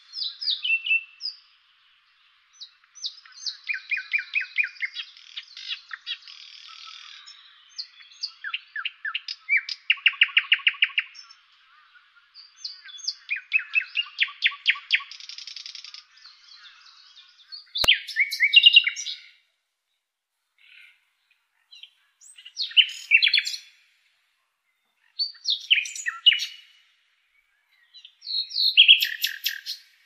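Songbirds singing: rapid trills and quick series of chirps for the first half. After an abrupt cut about 18 seconds in, short, louder song phrases repeat every few seconds.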